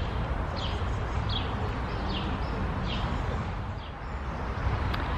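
A songbird calling over and over, a short falling chirp repeated about every three-quarters of a second, over a steady low rumble.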